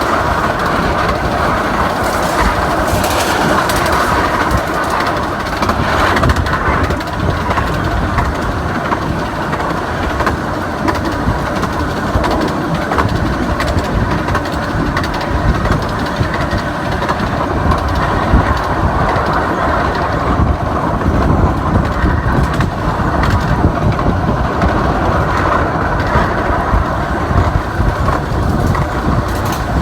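Romney, Hythe and Dymchurch Railway 15-inch gauge miniature train running steadily along the track, a continuous rumble and rattle of wheels and carriages.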